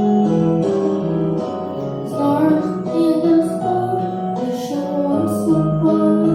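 A song sung by a young voice over an acoustic guitar accompaniment, the melody moving from note to note.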